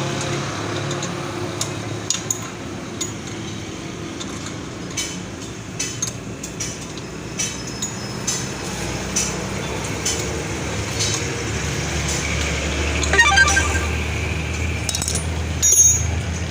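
Scattered metallic clinks of tools and parts being handled, over a low steady motor hum. There is a short burst of rapid ticking near the end.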